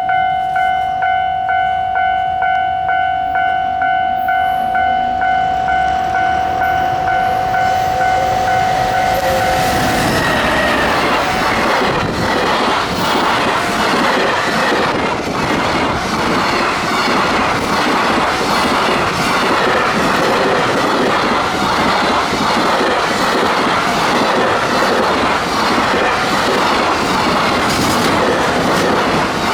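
A pulsing warning bell, about two strokes a second, typical of a Japanese level crossing. About ten seconds in, an EF210 electric locomotive hauling 24 Koki container wagons passes close by and drowns it out. The wagons' wheels then clatter over the rail joints in a rapid steady rhythm.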